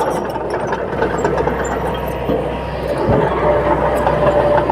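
Bulldozer's diesel engine running steadily, getting a little louder about three seconds in.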